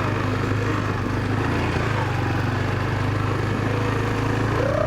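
Small dirt bike engine running steadily at a low, even speed.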